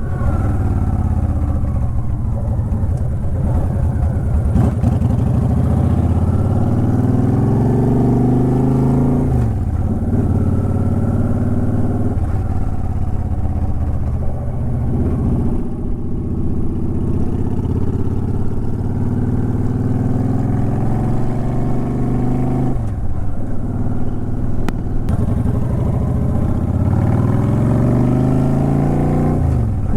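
2009 Honda Shadow Aero 750's V-twin engine and exhaust under way, pulling up through the revs and dropping back at each gear change, several times over, with wind buffeting the microphone.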